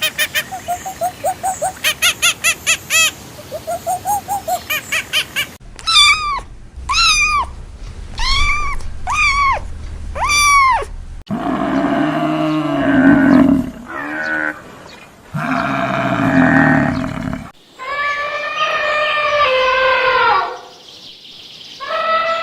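A run of different animal calls cut one after another. It opens with a rapid pulsing trill for about five seconds, then five rising-and-falling calls about a second apart, then longer pitched calls and a wavering bleat-like call near the end.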